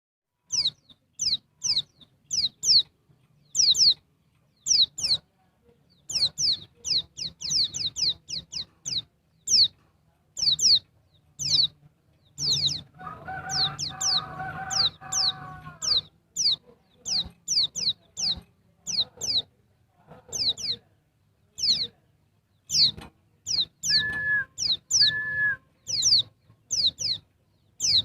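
Female white-eye (pleci) calling: short, high, downward-sweeping chirps, singly and in quick runs, the call used to draw males. A lower, rougher sound about halfway through, and two short level whistles near the end.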